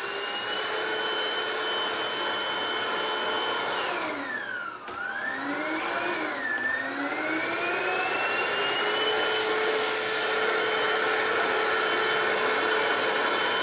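Hoover CRUISE+ cordless stick vacuum running: a steady high motor whine over airflow hiss. About five seconds in, the whine drops sharply in pitch and loudness, then climbs back up to speed.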